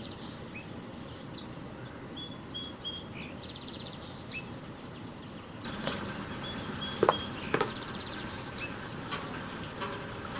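Small birds chirping, with short high calls and three quick buzzy trills, over a steady hiss of falling rain. Rain grows a little heavier about halfway through, and a couple of sharp taps come a little after that.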